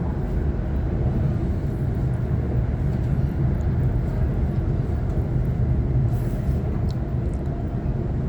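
Sydney Trains Waratah electric multiple unit in motion, heard from inside the carriage: a steady low rumble of the train running along the track.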